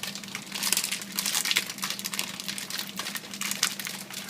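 Electric mixer running at low speed with a steady motor hum, churning chocolate chips through a dry, granular cookie dough that makes a dense, continuous crackling rattle; the dough is not binding together.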